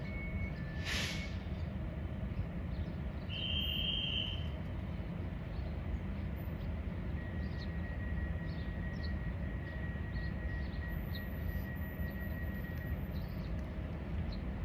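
A level crossing's electronic warning bell, alternating between two tones, cuts off about half a second in. A steady low rumble fills the rest, with a sharp crackle about a second in, a short high tone around four seconds and faint scattered chirps.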